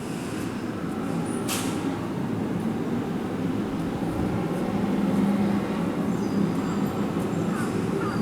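Keihan electric train moving through the station: a steady rumble of wheels and motors that grows slowly louder, with a sharp click about one and a half seconds in and short squeals near the end.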